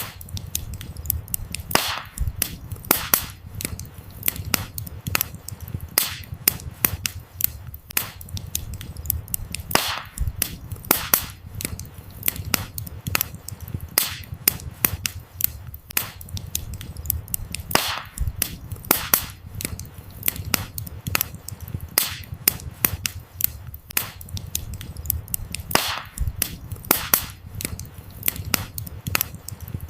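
Wood fire burning, its firewood crackling with frequent irregular sharp snaps and pops, a few louder than the rest, over a low steady rumble.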